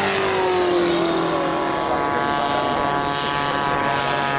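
Electric radio-controlled model airplane flying past, its motors and propellers whining with several steady tones; one tone falls in pitch during the first second as it passes.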